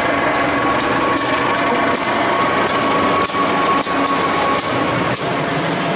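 Diesel-electric locomotive hauling a passenger train passes close by, its engine running and its wheels rolling over the rails, with a few sharp clicks as it goes.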